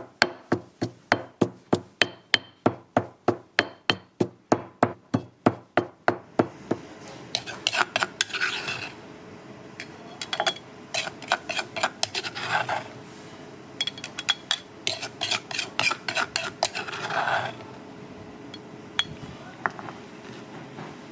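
Knife chopping fast on a cutting board, about four even strokes a second, stopping about six and a half seconds in. After that come bursts of metal clinking and scraping against pans and dishes.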